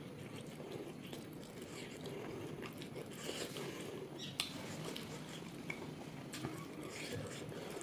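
A person chewing pork close to the microphone: steady wet mouth sounds with a few short crunches and clicks, the sharpest about four and a half seconds in.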